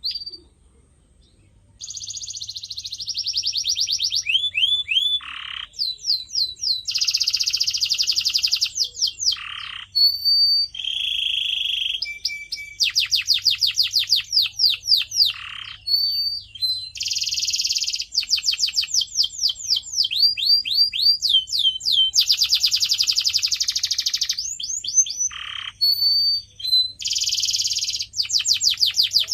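Canary singing a long song of rapid rolling trills and fast repeated downward-sweeping whistled notes, phrase after phrase with brief breaks, starting about two seconds in.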